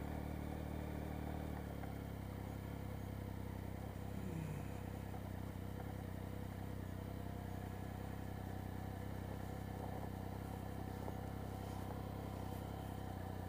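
Triumph Speed Triple's three-cylinder engine running steadily at low revs as the bike creeps along gravel; its note drops slightly about two seconds in.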